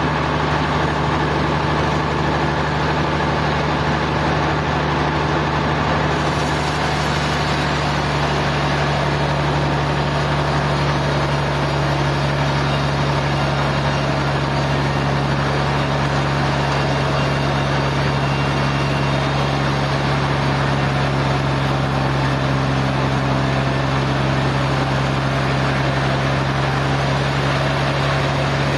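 Sawmill machinery running steadily: a constant engine-like hum with noise over it, holding the same pitch and level throughout.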